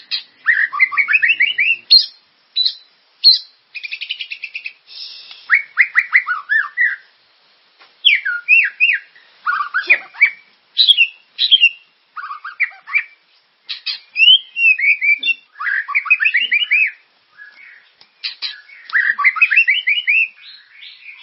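Recorded songbird song of the kind played as a masteran (tutor song) for training white-rumped shamas: a fast, varied stream of chirps, buzzy trills and rising series of quick whistled notes, in short phrases with brief pauses between them.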